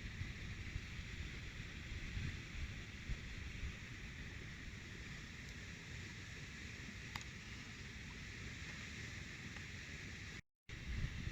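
Steady outdoor hiss with wind buffeting the microphone in low, uneven gusts; the sound cuts out briefly near the end.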